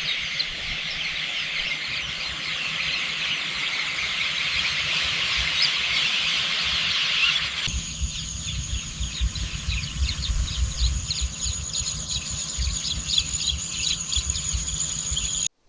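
Countryside ambience thick with chirping birds and insects. About eight seconds in it cuts to another stretch with a steady high insect whine under scattered chirps, with a low rumble of wind beneath.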